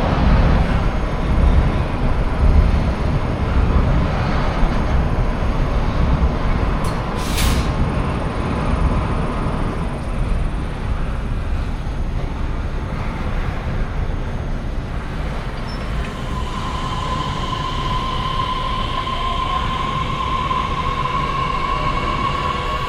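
Train running along the tracks with a steady low rumble. A short hiss comes about seven seconds in, and a high whine starts about two-thirds of the way through and climbs slowly in pitch.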